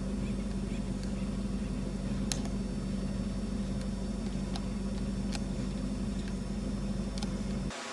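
Steady low mechanical hum with a few faint sharp clicks, cutting off abruptly near the end.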